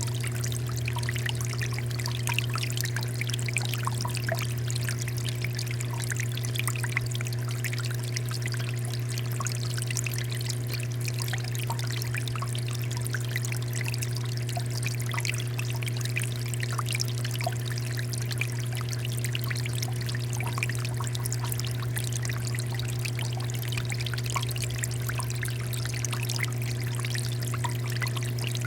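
Water fountain running steadily, water pouring and trickling with many small splashes, over a steady low hum.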